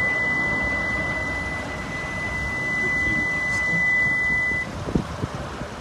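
A steady, high-pitched electronic beep holding one pitch for about four and a half seconds, then cutting off suddenly, over low background noise.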